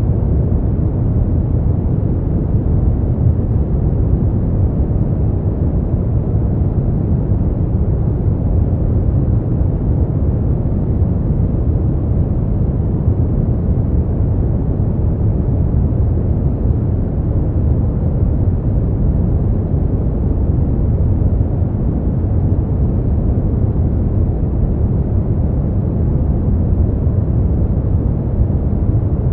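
Steady, unchanging noise for sleep, labelled white noise but deep and rumbling rather than hissy, with its weight in the low end and almost no high hiss.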